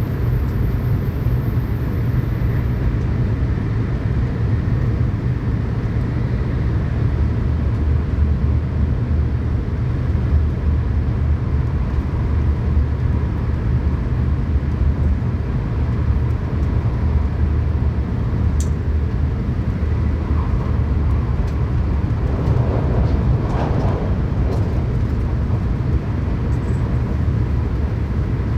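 Interior running noise of a Tokaido Shinkansen train at speed: a steady low rumble with an even hiss over it, and a brief click about two-thirds of the way through.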